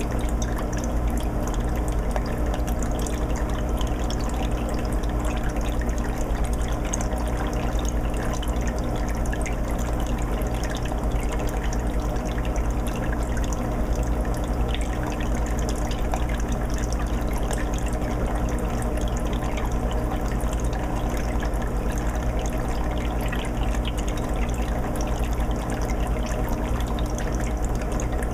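Aquarium filter running on a 20-gallon fish tank: water trickles and splashes steadily back into the tank with small dripping ticks, over a steady low hum.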